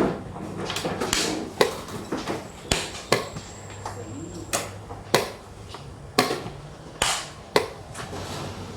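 Xiangqi pieces clacked down on the board and chess clock buttons pressed as the players move in turn: about nine sharp knocks at uneven intervals, some less than half a second apart.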